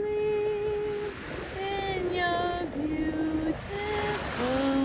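A woman singing a slow, wordless lullaby in a run of long held notes that settle lower near the end, with a steady hiss of surf behind.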